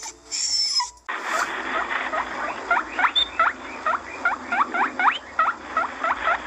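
A puppy whimpering briefly. About a second in, this gives way to a fast run of short, squeaky animal chirps, about three or four a second, over a steady hiss.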